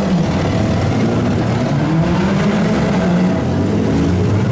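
Engines of demolition derby vans, trucks and SUVs revving, their pitch rising and falling.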